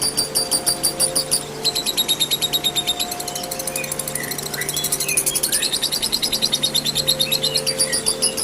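Lovebird's long 'ngekek' call: a continuous, rapid, high-pitched chattering trill of about four to five sharp strokes a second, changing pattern briefly a little after a second in and growing denser for a couple of seconds mid-way. Faint short rising chirps of other birds sound underneath.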